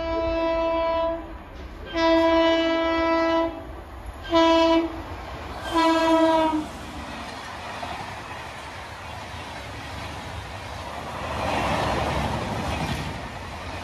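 Indian Railways WAP7 electric locomotive sounding its horn in four blasts, the last short one falling slightly in pitch as it goes past. The express then rushes through at about 120 km/h: a rising rush and rumble of wheels and coaches that is loudest near the end.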